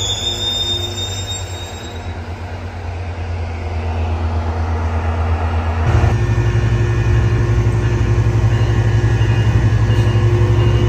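Diesel locomotive of a Metrolink commuter train running in the station. A high-pitched squeal fades away in the first couple of seconds, and about six seconds in the engine steps up suddenly to a louder, deeper drone.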